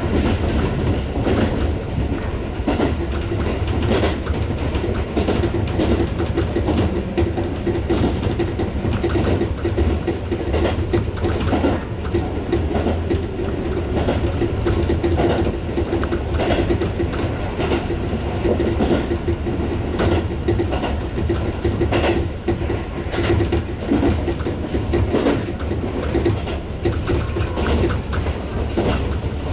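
Tobu 6050 series electric train running at speed, heard from its leading car: a steady rolling rumble and hum with irregular clacks of the wheels over rail joints and points.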